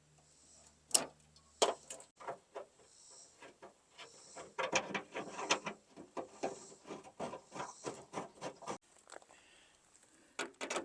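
Scattered metal clicks and knocks from hand work on a steel pickup tailgate and its hinges, with a run of quick, irregular clicks through the middle.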